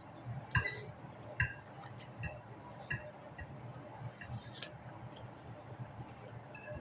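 Fork or other eating utensil clinking against a plate while eating, about six separate taps, each ringing briefly.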